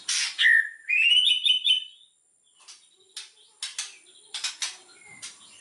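White-rumped shama (murai batu) singing with harsh rasping notes and a quick rising run of whistled notes about a second in. After a brief pause it gives a string of short, sharp rasping calls.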